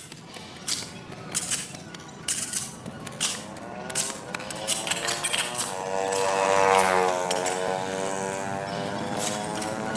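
A motor vehicle's engine passing close by: a pitched engine tone swells and bends in pitch, loudest about seven seconds in. Before it come scattered sharp knocks and scrapes.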